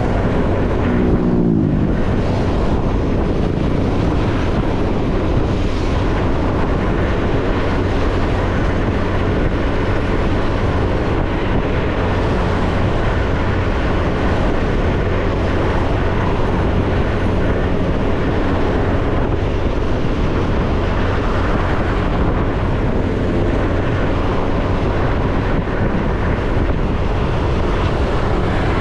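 Small motorcycle engine running steadily at road speed, with wind and road noise over the microphone. About a second in, a passing vehicle's engine note sweeps down in pitch, and a fainter one follows later.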